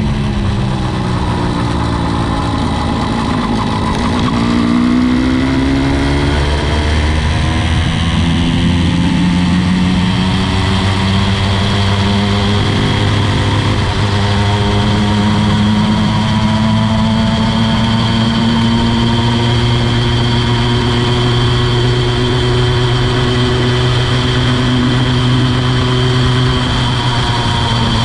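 80cc two-stroke motorized bicycle engine running under way. Its revs fall for the first few seconds, pick up again about four seconds in, and then hold steady.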